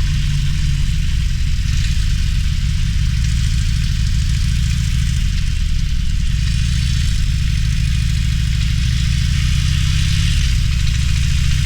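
Harley-Davidson Roadster's air-cooled V-twin engine running steadily at low revs with its deep, even pulsing and no sharp revving, over a steady hiss.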